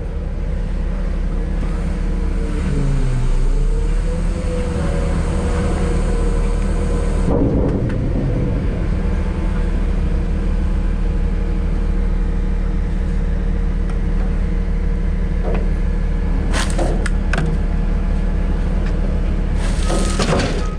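Front-load garbage truck's engine and hydraulics running with a steady low hum. One tone in it drops in pitch and comes back up about three seconds in, and a few sharp clanks come near the end.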